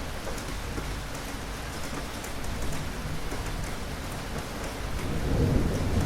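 Steady rain falling, with fine drop ticks throughout. Thunder rumbles low, swelling near the end.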